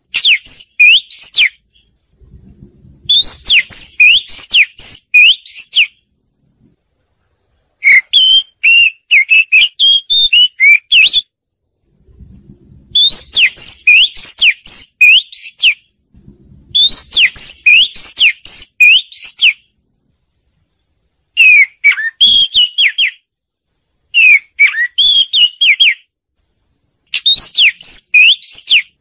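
Oriental magpie-robin singing: bouts of clear whistled notes that sweep quickly up and down, each bout a second or two long, with short pauses between.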